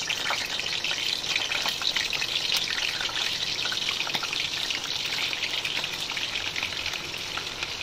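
Raw paneer cubes frying in hot vegetable oil in a nonstick pan, a dense, steady sizzle and crackle.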